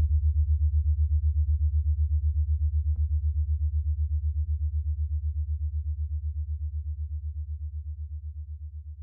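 A steady low hum with a fast pulsing beat, fading out toward the end, with a few faint clicks.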